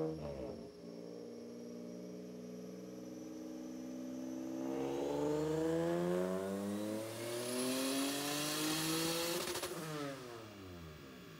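Turbocharged Honda J35 V6 in a 9th-gen Accord making a wide-open-throttle pull on a chassis dynamometer. The engine note climbs steadily for about five seconds, with a faint high whine rising alongside it. It then falls away sharply as the throttle closes about ten seconds in.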